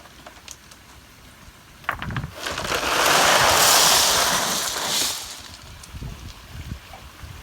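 A rushing, hissing noise swells up about two seconds in, peaks, and fades away again over about three seconds, over a faint steady background.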